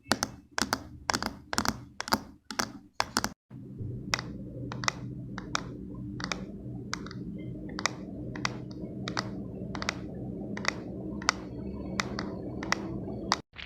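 A steady run of sharp ASMR clicks, about three a second, breaking off a little over three seconds in; then slower evenly spaced clicks, about one every two-thirds of a second, over a steady low hum.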